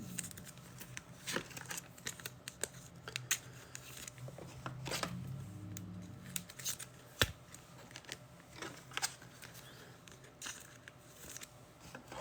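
Trading-card packs and cards being handled: faint, irregular crinkles, small rips and clicks of wrappers and card stock, with one sharper click about seven seconds in.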